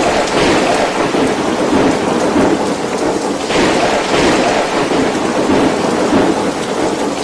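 Violent storm: heavy rain and wind noise, loud and continuous, swelling in gusts several times.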